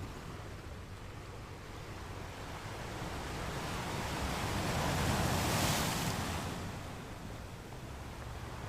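Ocean waves on the shore: the surf swells to a breaking wave about five to six seconds in, then washes back and fades.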